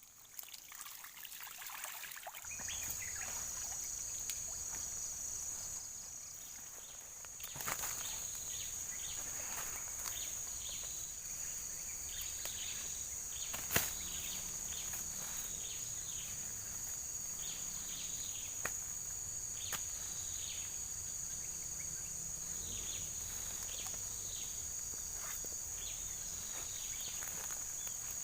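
Steady high-pitched insect drone, starting about two and a half seconds in, with many scattered short chirp-like sounds and one sharp click about fourteen seconds in.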